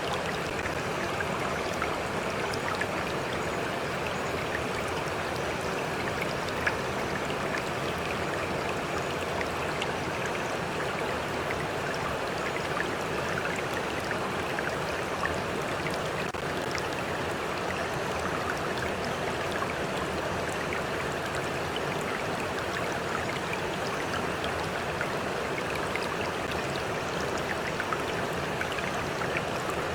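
A flowing stream: a steady rush and babble of running water, with small splashes and droplets ticking through it.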